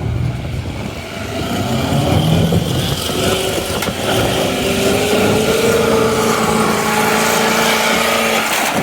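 Off-road vehicle engine revving hard under load during a mud recovery pull on a tow rope. Its pitch climbs through the middle and is then held at high revs until it cuts off abruptly near the end.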